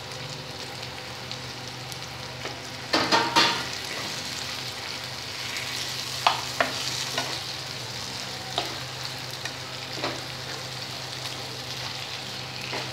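Potatoes and a katla fish head frying and sizzling in oil and masala in a pan while a spatula stirs them. About three seconds in there is a quick run of loud spatula knocks and scrapes against the pan, with a few single clicks later on.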